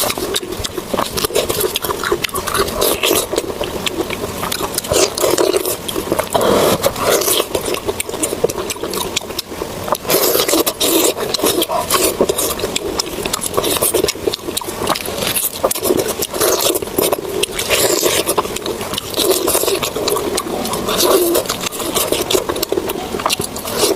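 Close-miked chewing and wet mouth sounds of a person eating: continuous irregular smacks, squelches and crunchy clicks.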